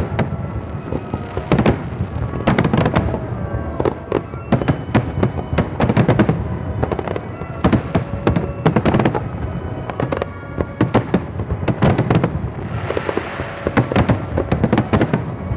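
Fireworks display: aerial shells bursting in rapid succession, bangs overlapping several times a second, with a stretch of crackling about three-quarters of the way through.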